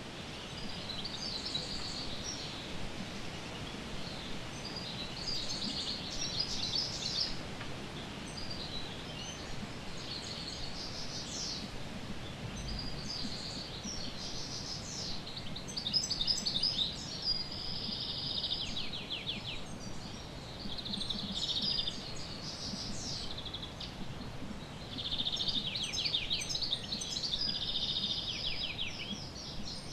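Small birds chirping and trilling in repeated short phrases every few seconds, over a faint steady background hiss.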